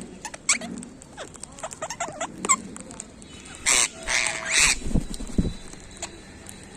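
Parrots chattering in short chirps and clicks, with two loud, harsh squawks around the middle. Two low thumps follow just after the squawks.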